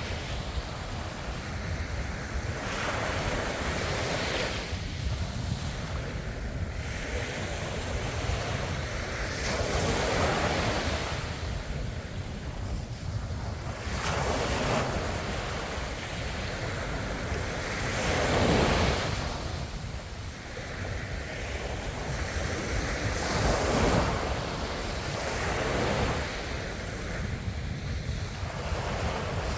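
Ocean waves breaking and washing on a shore, one surge every few seconds over a continuous rush of surf, with wind on the microphone rumbling underneath.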